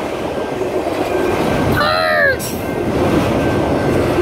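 Freight train of autorack cars rolling past at a grade crossing: a steady rumbling wheel-on-rail noise. About halfway through, a short high-pitched voice rises and falls over it.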